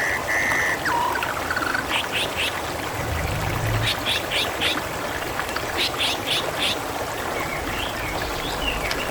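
Water running and trickling steadily, with clusters of short high chirps every couple of seconds. A steady high whistle stops about a second in, followed by a brief lower note.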